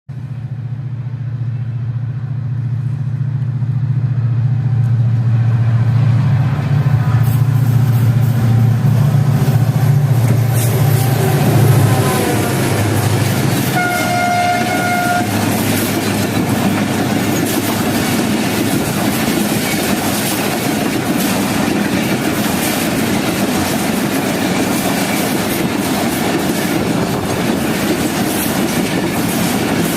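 Passenger train departing: a loud low locomotive drone builds over the first half. Midway there is one horn blast of about a second and a half. The carriages then roll past with steady clickety-clack of wheels over rail joints.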